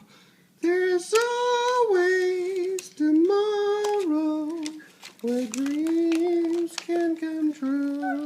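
A young voice sings a slow tune in long held notes, beginning about half a second in.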